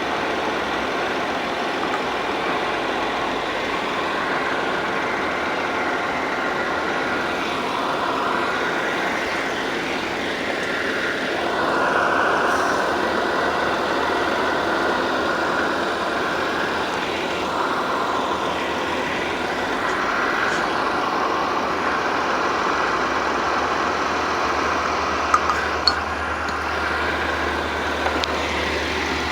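Car engine idling steadily with the air conditioning running during a refrigerant recharge. A couple of small sharp clicks sound near the end.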